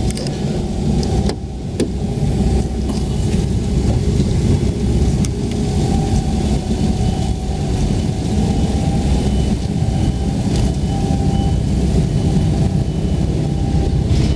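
Used Toyota Aristo engine running steadily on test, with a faint whine coming and going over the low running sound and a brief drop in level a little over a second in.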